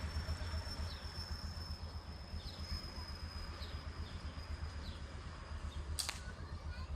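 A single sharp air-rifle shot about six seconds in. Behind it is a steady low rumble and a thin, high, steady whine, with faint short chirps about a second apart.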